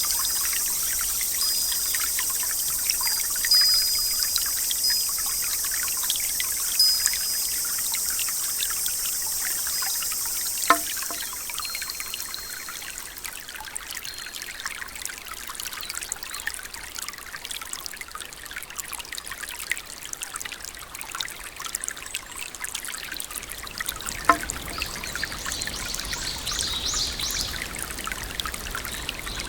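Steady rain with trickling water. A bright high hiss eases about eleven seconds in, and a bird chirps briefly near the end.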